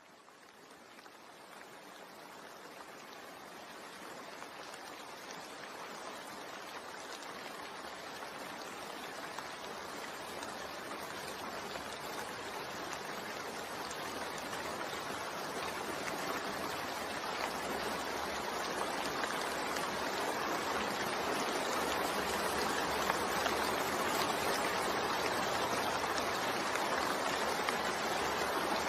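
Steady rain falling, an even hiss of water, fading in from silence and growing louder over the first several seconds before holding steady.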